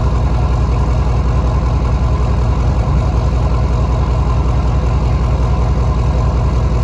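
6.5 L Detroit diesel V8 idling steadily with an even, rapid low pulse, running on after a cold start.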